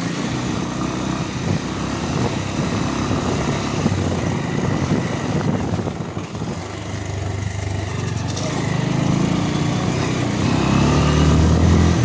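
Motorcycle engine running while riding, over a steady rush of noise. The engine note grows louder and climbs in pitch over the last few seconds.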